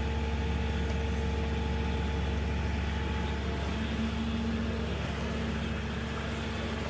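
A motor vehicle engine idling steadily, a constant low hum with a few steady tones above it.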